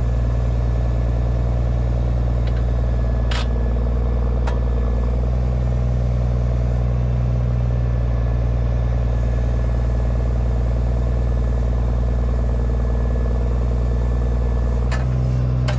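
Heavy engine running steadily at low speed, with a few sharp metallic clanks.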